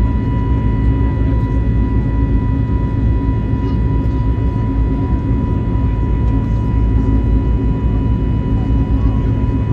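Cabin noise of an Airbus A321neo under takeoff power: its CFM LEAP-1A engines give a steady roar with a steady high whine.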